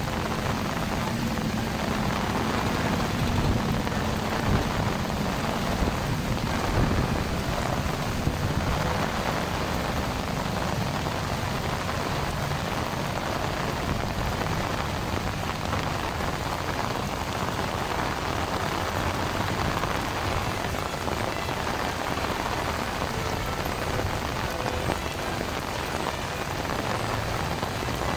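Heavy rain pouring steadily, a dense even hiss, with a low rumble in the first several seconds.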